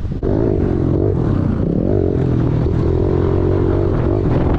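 Small 110cc four-stroke pit bike engine running under throttle, its pitch wavering slightly up and down.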